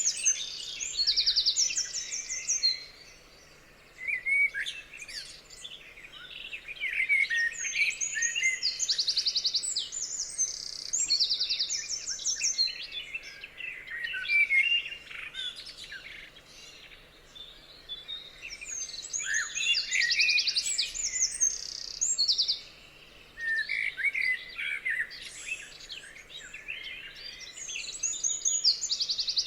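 Several songbirds singing together: many short chirps and whistles, with fast high trills repeating every few seconds. The chorus drops away briefly twice.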